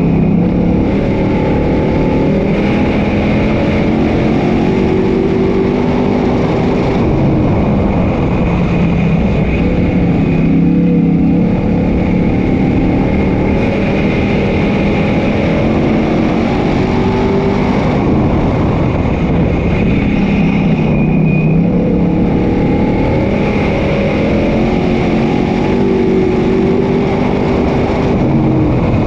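Dirt track race cars (sportsman modifieds) running hard around the track, their engines rising and falling in pitch over and over as they accelerate out of the corners and lift into them.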